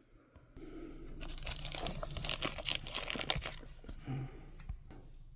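Packaging being torn open and crinkled by hand, a dense run of crackling rips and crinkles from about a second in that dies down near the end.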